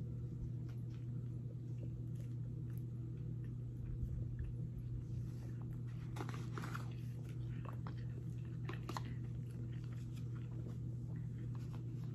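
A person biting into a burger and chewing, close to the microphone: scattered soft wet mouth clicks and smacks, busiest around the middle, over a steady low hum.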